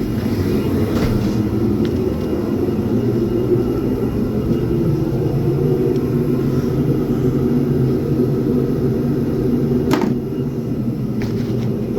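A car engine running with a steady low rumble, and a short click about ten seconds in.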